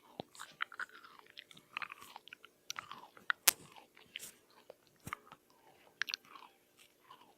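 Food being chewed and bitten: irregular moist mouth sounds with crisp clicks and crunches, the sharpest about three and a half seconds in.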